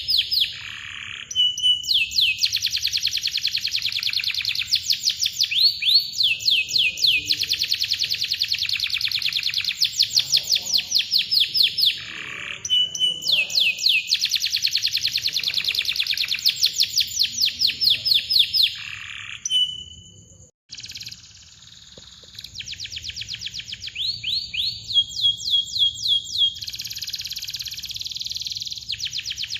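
Domestic canary singing long, tight rolling trills of rapidly repeated falling notes, broken now and then by short held whistles. The song pauses briefly about two-thirds of the way through, then resumes with chirps and rolls.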